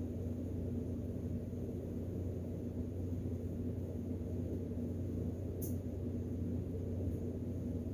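Steady low hum, with a single faint click about five and a half seconds in.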